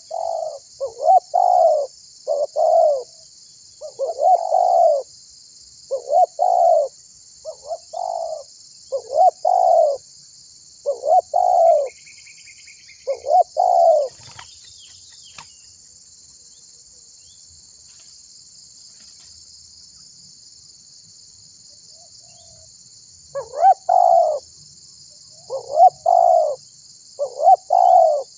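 Spotted dove (tekukur) cooing in a long run of short repeated phrases, about one a second. It falls silent about halfway through and starts again a few seconds before the end.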